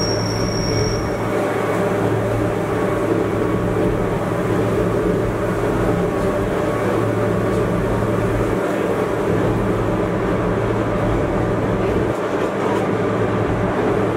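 Gornergrat Bahn electric rack railway train running uphill, heard from inside behind the front window: a steady running rumble with a constant low motor hum. A thin high squeal fades out about a second in.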